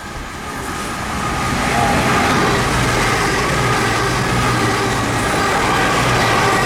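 Diesel train approaching and running past, growing louder over the first two seconds and then holding steady, with a low engine hum and a few steady higher tones over the rumble.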